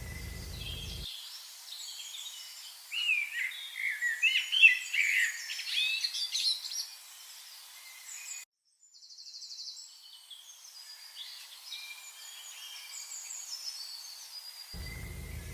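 Songbirds singing and chirping. A loud song of quick, varied phrases sounds from about three to seven seconds in, and the sound drops out briefly just after eight seconds before quieter chirping resumes.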